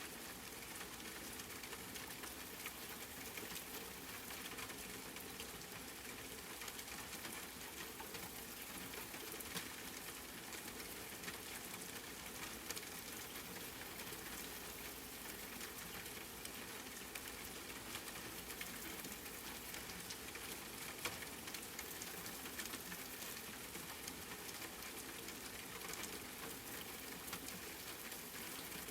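Steady rain, a dense even hiss of falling drops with a few louder individual drop hits scattered through.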